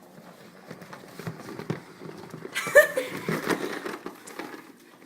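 Salad being tossed in a bowl: irregular rustling and small clicks, with a short voice sound about two and a half seconds in.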